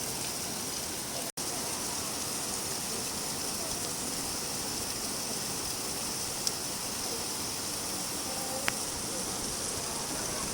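Steady rain falling, an even hiss of many drops, with a couple of single drip ticks in the second half. The sound cuts out for an instant about a second in.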